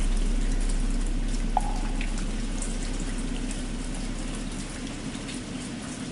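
Steady rain falling while the deep hum of a struck temple bell fades slowly away. A single hollow knock of a wooden fish (muyu) sounds about one and a half seconds in.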